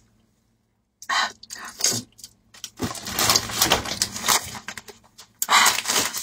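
Close-miked eating sounds: chewing, with irregular wet clicks and smacks, starting about a second in. Near the end a small plastic packet is handled and crinkles.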